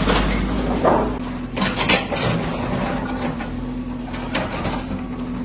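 Machinery running with a steady hum, with several sharp knocks and clanks over it.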